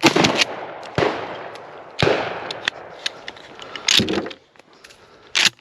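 Shotgun shots: three loud blasts about a second apart, each trailing off in a long echo, followed by a couple of fainter, sharper bangs later on.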